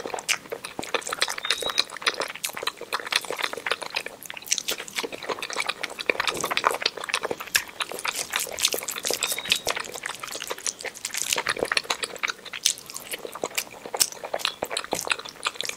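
Close-miked chewing and wet mouth sounds of a person eating rice by hand: an irregular, continuous run of sharp smacking clicks.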